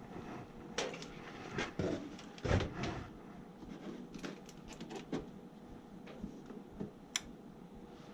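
Irregular light clicks and knocks of hands working on wiring and tools at an HVAC zoning panel, a few sharper knocks among them, over a faint steady hum.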